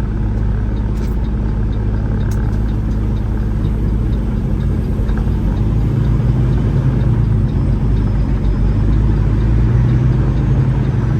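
Semi-truck diesel engine idling steadily, heard from inside the cab, with a steady low rumble that grows a little louder in the second half.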